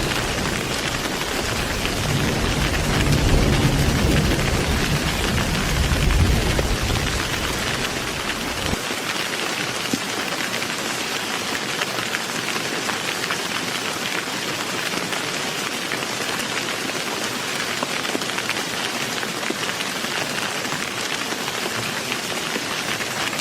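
Heavy rain falling steadily, with a deep rumble of rolling thunder dying away over the first several seconds; the low rumble cuts off abruptly about nine seconds in, leaving the steady rain hiss.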